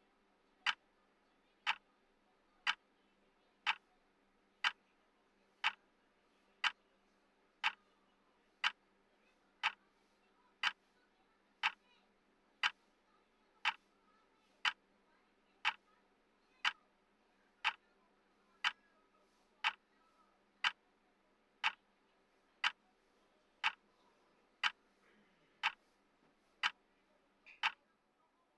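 Clock-style ticking from a countdown timer, one sharp tick each second, marking off the seconds steadily.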